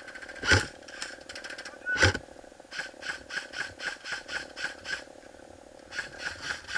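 Airsoft gunfire: two loud single shots, then a string of quicker, quieter shots at about four a second, with a shorter run near the end.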